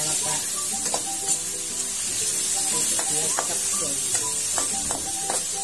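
Pork, garlic and onion sizzling in hot oil in a wok, with a metal spatula scraping and knocking against the pan as it is stirred.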